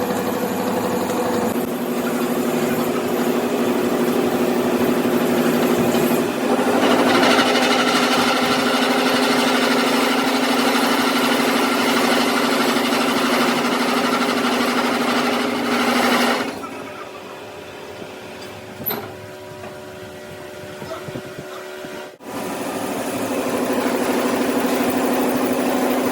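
Workshop machine running with a steady motor hum. About a quarter of the way in, a louder, rougher working noise joins it. Both stop suddenly past the middle, and after several quieter seconds the machine starts up again near the end.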